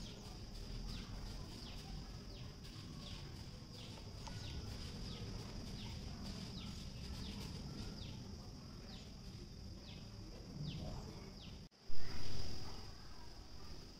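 A bird calls in short, falling chirps repeated every half second or so over a steady high-pitched drone. The sound breaks off abruptly near the end and a sudden loud noise follows.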